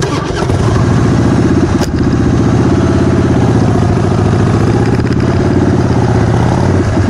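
Harley-Davidson V-twin motorcycle engine running steadily as the bike is ridden, getting a little louder about a second in.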